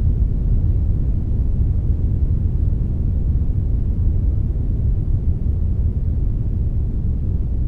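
Steady brown noise with a little white noise mixed in: a deep, even rumbling hiss, strongest in the low end and fading toward the treble.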